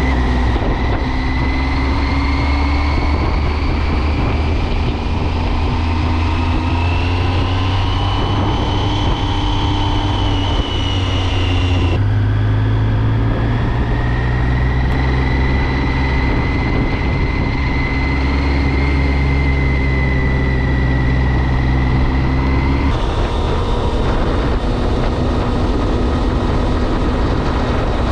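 2006 Triumph Speed Triple's 1050 cc inline-three engine and exhaust pulling under way. The engine note climbs slowly, drops abruptly about twelve seconds in, then climbs again before changing abruptly once more about 23 seconds in.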